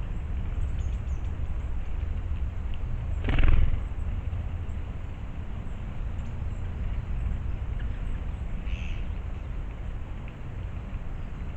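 A wild animal gives one loud, short call about three seconds in and a fainter, shorter one near the end, over a steady low rumble.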